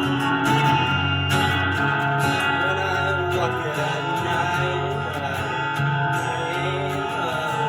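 A live band playing guitar-led music, with sustained, ringing notes.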